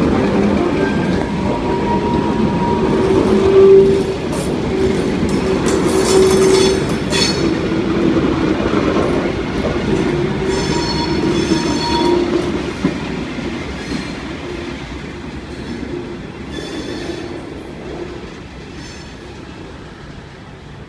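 Train moving on the station tracks, with a steady running sound, clicks of wheels over rail joints, and a high wheel squeal about ten seconds in; the sound fades steadily over the last third as the train draws away.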